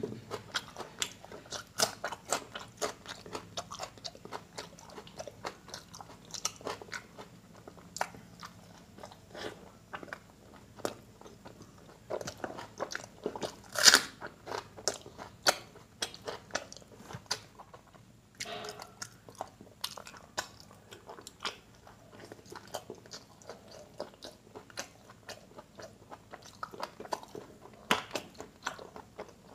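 Close-miked eating sounds: a man chewing and biting mouthfuls of curry and dal eaten by hand, with many small wet clicks and smacks and one louder mouthful about halfway through.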